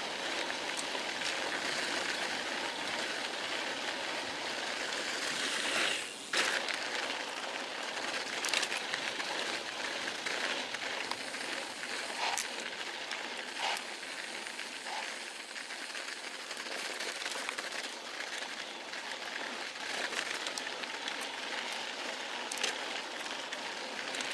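Steady rain falling, a constant hiss with scattered light ticks of drops; the sound briefly drops out about six seconds in.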